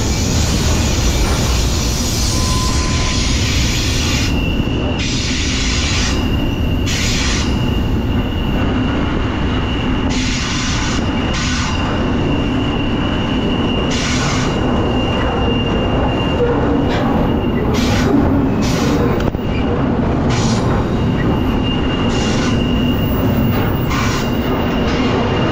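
BNSF freight train running: a loud steady rumble and rattle of cars on the rails. A thin, high, steady wheel squeal holds for long stretches, and there are scattered clanks.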